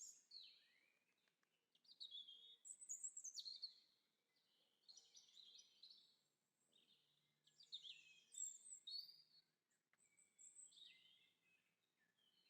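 Faint birdsong: a songbird singing a string of short, high, quickly changing phrases with brief pauses between them.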